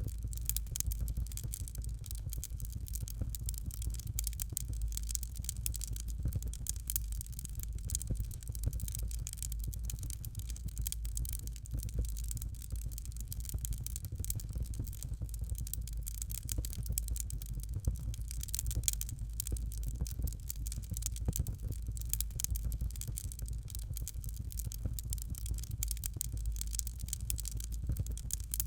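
Fire crackling steadily: a dense run of small rapid pops and snaps over a low steady rumble.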